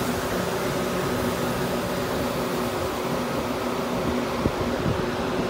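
Steady mechanical hum with a few steady tones from a Metra bilevel commuter train standing at the platform.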